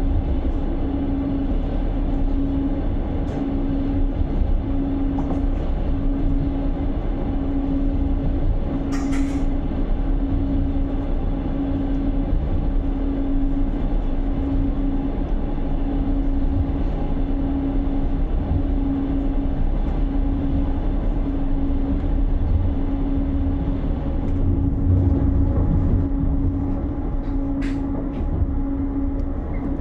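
Passenger train running, heard from inside the carriage: a steady low rumble with an evenly pulsing hum. A sharp click comes about nine seconds in and another near the end.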